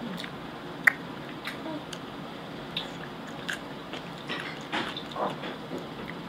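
A child chewing a piece of brine-pickled onion: faint mouth and biting sounds with a few soft clicks, the sharpest about a second in.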